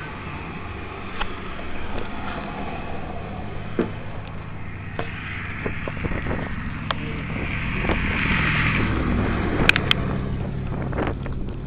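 1978 Chrysler Cordoba's V8 engine running with a steady low hum, with a swell of hiss around eight to nine seconds in, during a hard start after flooding.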